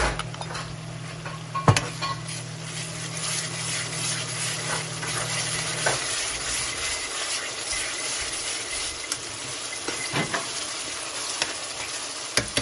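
Chopped onion and pounded ginger-garlic-chilli sizzling steadily in hot oil in an aluminium wok, with a few sharp knocks of a metal spoon against the pan and mortar, the loudest about two seconds in. A low steady hum underneath stops about six seconds in.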